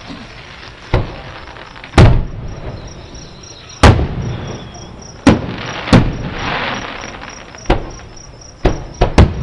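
Aerial fireworks shells bursting about a mile away: about nine sharp booms, three of them in quick succession near the end, with a patch of crackling around the middle. Crickets chirp steadily underneath.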